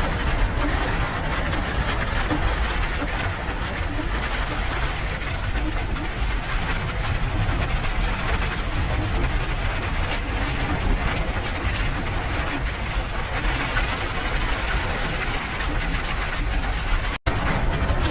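Steady rain noise with a deep low rumble beneath it, cut by a brief dropout about a second before the end.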